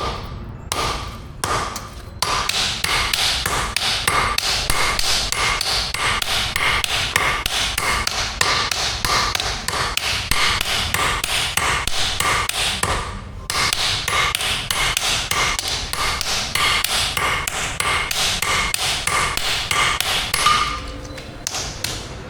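Blacksmith's hammer striking steel on an anvil in a steady rhythm of about three ringing blows a second, forging an axe head, with a short pause about halfway through.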